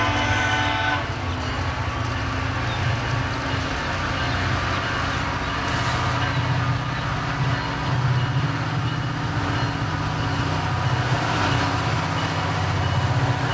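Train horn sounding a chord that cuts off about a second in, followed by the steady low rumble of an approaching SunRail diesel locomotive's engine.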